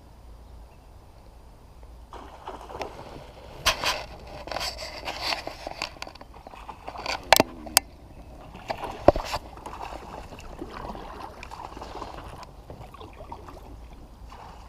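Scrapes, knocks and light water sloshing around a plastic kayak. The sounds are uneven and start about two seconds in, with three sharp knocks or clicks in the middle.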